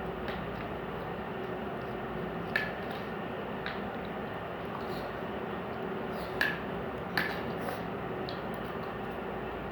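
Spoons clinking against dinner plates while pulao is being eaten, a few sharp clinks, the loudest about six and a half seconds in. A steady fan-like hum runs underneath.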